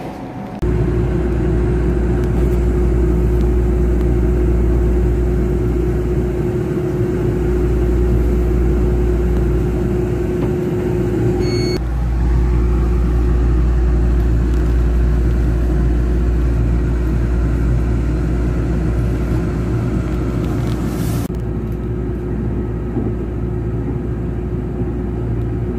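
Passenger train running, heard from inside the carriage: a steady low rumble with a constant hum. The sound changes abruptly twice, about 12 and 21 seconds in.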